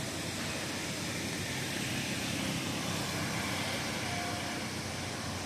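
Steady rushing road noise of vehicle traffic, with a brief faint tone about four seconds in.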